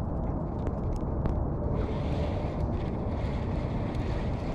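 Boat motor running steadily at trolling speed, with a hiss joining about two seconds in.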